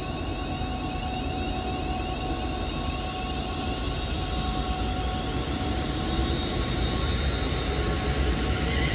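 Class 350 Desiro electric multiple unit moving through the station: a steady low rumble with a few steady tones above it, growing louder toward the end. A short high hiss about four seconds in.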